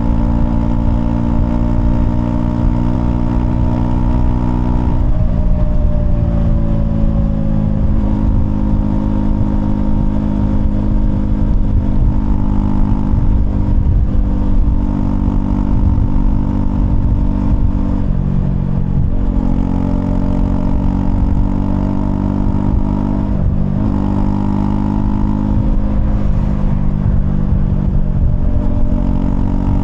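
Honda CL250's single-cylinder engine running under way on the road. The engine note holds steady for stretches and breaks or shifts in pitch several times.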